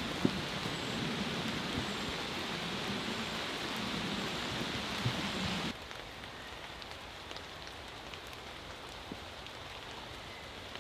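Steady heavy rain, with a few scattered knocks near the start. About halfway through it drops suddenly to quieter, lighter rain with scattered individual drops.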